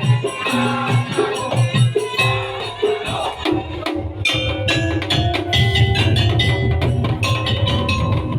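Madurese daul (tong-tong) percussion ensemble playing an arrangement: rapid wooden and metal strikes with pitched tones over low drums. The low drum part thickens about three seconds in.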